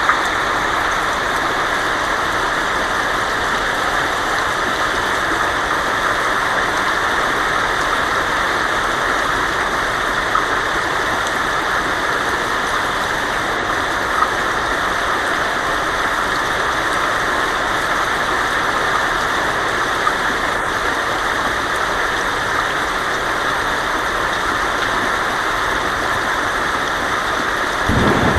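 Heavy rain drumming steadily on a tin roof, an even hiss with no let-up. A low rumble of thunder starts right at the end.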